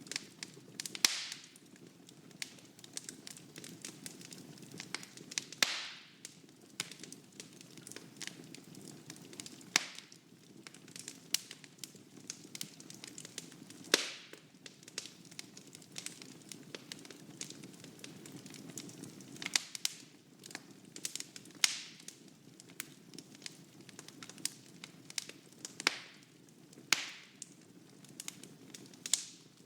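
Wood fire burning in a fireplace: a soft steady rush of flames with constant small crackles and irregular loud snapping pops from the burning logs.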